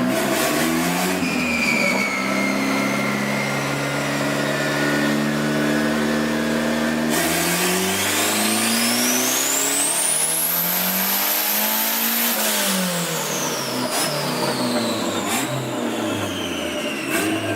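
Turbocharged Honda B20 VTEC engine in an Acura Integra on a chassis dyno running steadily for several seconds, then pulled hard at full throttle: its pitch climbs steeply for about five seconds with a high whine rising with it. Then it is let off and the revs fall away.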